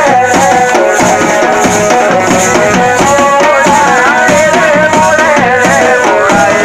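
Jaunsari folk dance music: a steady drum rhythm with rattling percussion under a wavering melody line.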